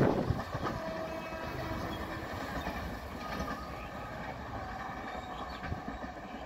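Passenger express train hauled by a WAP-5 electric locomotive rolling away along the track after passing. The wheel-and-rail rumble falls off sharply in the first half-second, then goes on lower and steady as the train recedes.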